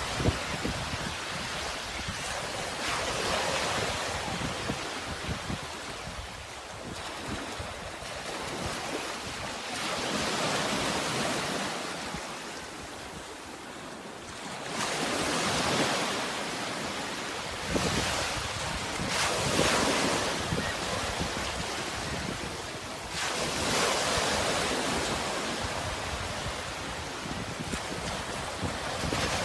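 Sea waves washing in and drawing back, the surf swelling and fading every few seconds, with some wind noise low down.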